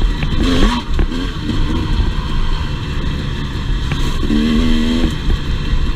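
Two-stroke enduro dirt bike engine running on the trail, its pitch rising and falling with the throttle, under heavy wind rumble on the microphone.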